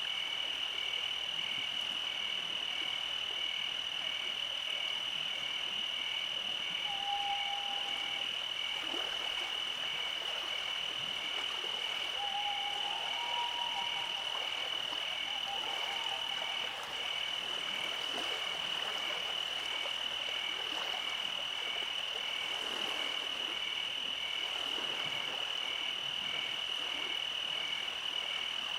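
Summer night chorus of calling animals: a steady high-pitched trill with a regular pulsing call beneath it, and a few short whistled notes in the middle.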